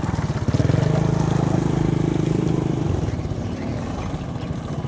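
Mitsubishi Canter truck's diesel engine pulling hard at steady revs through mud. It eases off about three seconds in.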